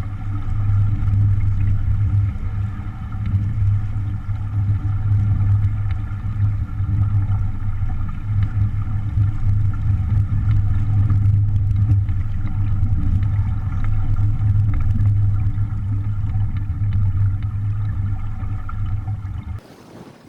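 A motor running at a steady speed, a constant low hum with steady overtones, which cuts off suddenly about a second before the end.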